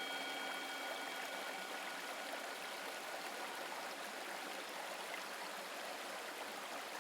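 Steady rush of a flowing stream. A struck bell tone rings and dies away over the first few seconds.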